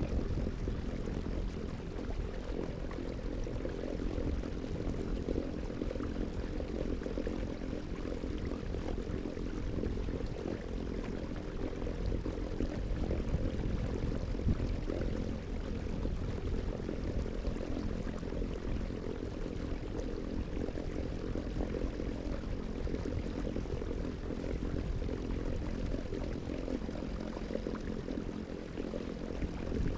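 A steady motor-like hum of several held low tones, over low rumbling wind or water noise.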